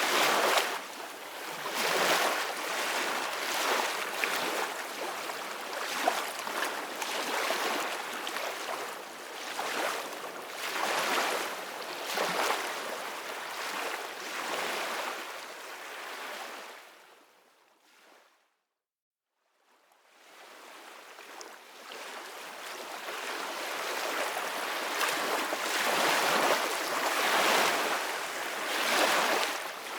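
Ocean waves breaking and washing on a beach, surging again and again every second or two. A bit past halfway the surf fades out to silence for about two seconds, then fades back in.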